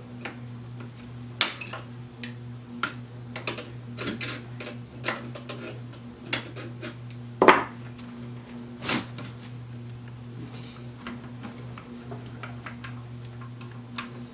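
Irregular sharp metallic clicks and clinks of hand tools working on a metal chassis, over a steady low hum.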